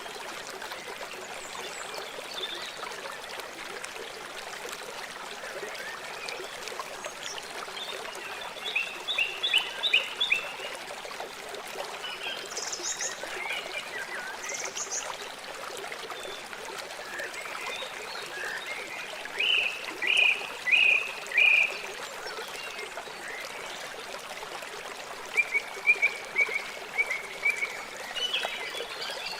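River water flowing in a steady rush, with three bouts of short, high calls repeated several times each from a wild animal, about nine, twenty and twenty-six seconds in.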